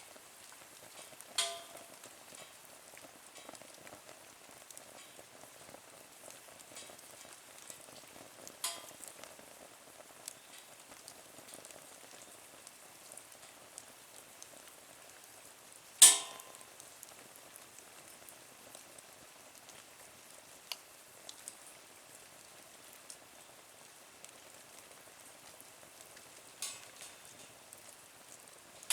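Wood fire burning in a small nature stove: a steady soft crackle with a few sharp pops, the loudest about halfway through.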